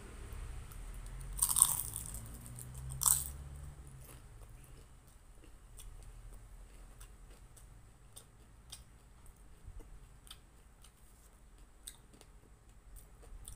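Biting into a crisp fried lumpia (spring roll): two loud crunching bites in the first few seconds, then quieter chewing with small crackles of the fried wrapper.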